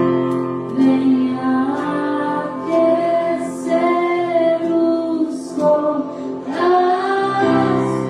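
Orchestra of strings and wind instruments playing a slow worship melody in long held notes.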